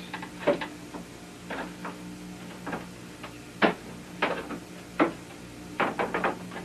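Irregular sharp knocks and taps of wooden parts being handled and set in place on a canoe mold, about eight over several seconds, with a cluster near the end. A steady low hum runs underneath.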